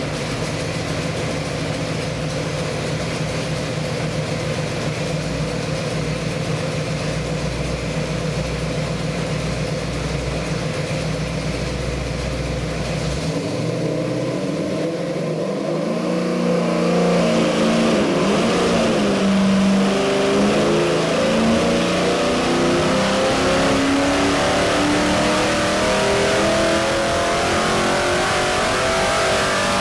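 347 stroker small-block Ford V8 with a four-barrel carburetor running on an engine dyno: it holds a steady low speed, then about 13 seconds in it revs up and its pitch climbs steadily through the rest, as in a dyno pull.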